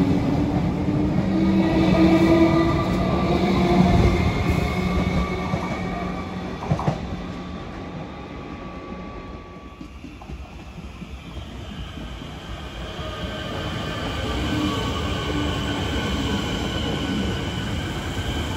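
Electric suburban trains: one pulls away with the gliding whine of its traction motors and wheel noise, fading over the first several seconds, with a single sharp knock about seven seconds in. From about two-thirds of the way through, a second train approaches and runs past close by, its motor whine and rail noise growing louder.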